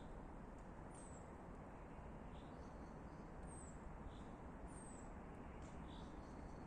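Quiet outdoor ambience with a steady low background hum, and small birds chirping now and then in short, high, falling notes.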